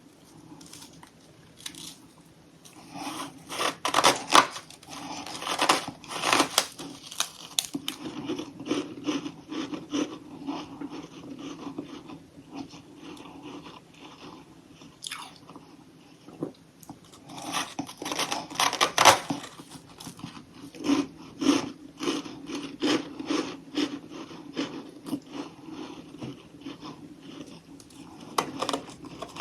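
A person biting into and chewing chunks of crunchy humidifier freezer frost, close to the mic. Loud crunching bites come in two clusters, a few seconds in and again past halfway, with steadier rhythmic chewing crunches in between.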